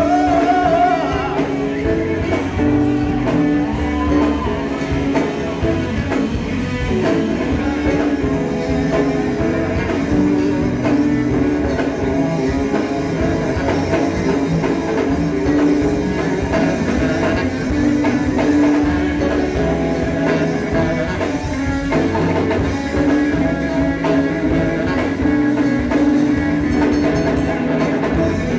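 Live rock band playing an instrumental break, with guitar and drum kit and held melody notes over a steady beat.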